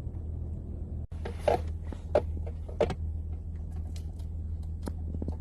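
Steady low hum of a car running, heard inside the cabin, with a few brief short sounds over it.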